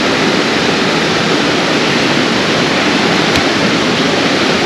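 Steady rush of flowing water from a waterfall or stream, with one light click about three and a half seconds in.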